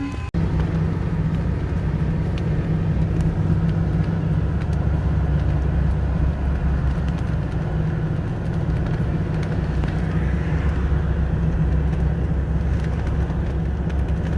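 Steady car engine and road rumble with a low, even hum, briefly cutting out just after the start.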